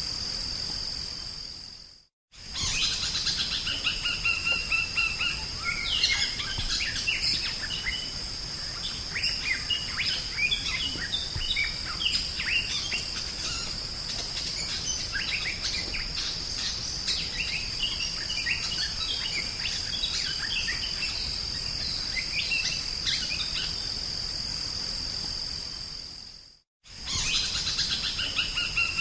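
Drongo (sri gunting) singing a busy run of varied whistles, chirps and sweeping notes over a steady high insect-like drone. The recording fades out to silence and straight back in twice, about 2 seconds in and near the end.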